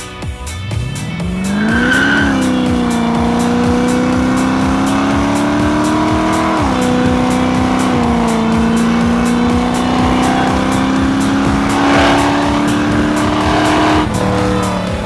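Music with a steady beat over a race car engine accelerating. The revs climb for about two seconds, drop with a gear change about six and a half seconds in, then hold high, and fall away near the end.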